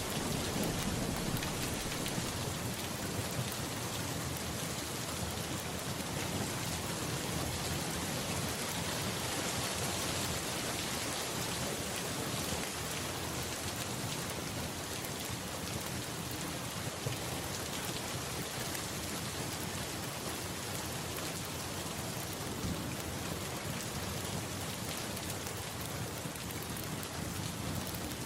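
Steady rain falling, with a low rumble of thunder dying away in the first second or so.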